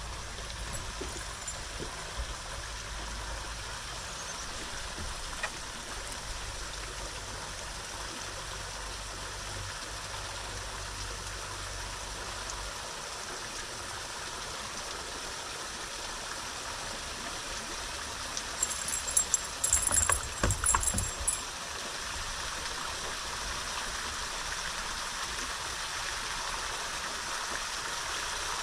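Steady rushing of water and wind on an open lake, with a low hum underneath that stops about halfway through. A brief burst of sharp clattering, with a high ringing, comes about two-thirds of the way in and is the loudest thing heard.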